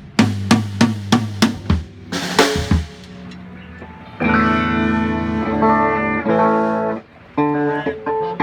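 A drum kit played in a quick run of about a dozen tom and snare hits over the first few seconds. Then a guitar chord rings out and is held for about three seconds, followed by another chord near the end.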